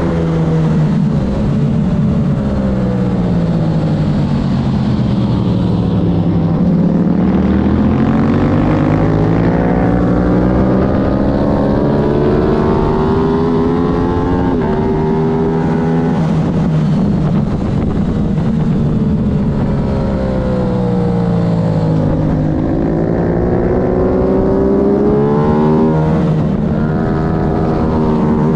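Aprilia road-racing motorcycle engine lapping a circuit at race pace. The pitch falls for several seconds as it slows into corners, then climbs hard under acceleration with quick steps down at each upshift, twice over.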